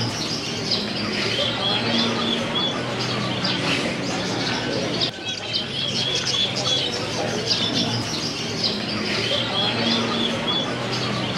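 Many caged birds chirping and calling together, with runs of short, evenly repeated notes, over a steady low hum.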